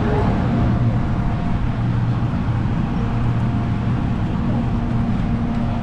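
Steady low rumble and road noise of a moving vehicle, with a constant low hum.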